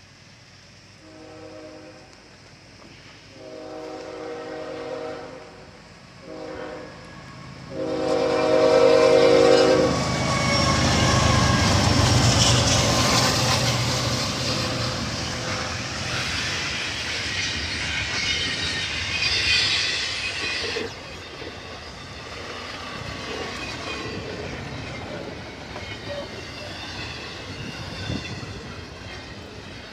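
Diesel locomotive air horn sounding four blasts, long, long, short, long, the grade-crossing signal. The train then rushes past with engine rumble and a loud rush of wheels on rail, dropping off suddenly about two-thirds of the way through and continuing more quietly.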